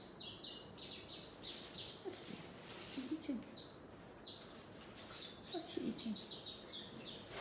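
Small birds chirping in quick runs of short, high, falling notes, repeated several times.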